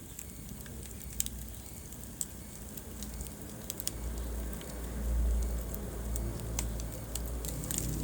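Wood fire crackling in a fireplace: scattered sharp pops and snaps over a low rumble of the burning fire, which swells about halfway through.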